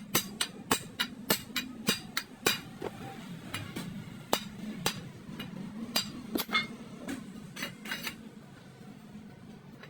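Hammer striking steel: a quick run of sharp, ringing metallic blows, about three a second, that turns sparser and uneven and stops about eight seconds in.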